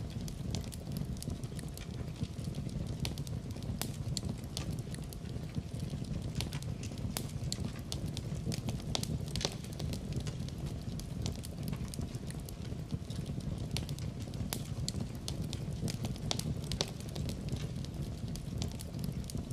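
Wood fire crackling, with sharp irregular pops and snaps over a steady low rumble of burning.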